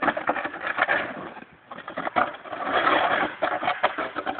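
Packed snow and ice being scraped and broken up: a dense run of irregular crunches and sharp knocks.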